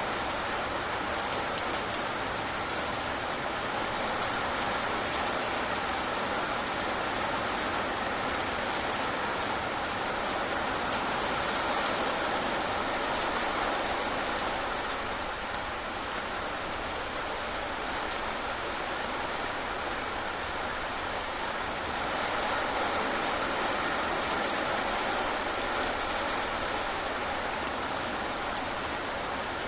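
Steady rain falling, with many small drop ticks through an even hiss.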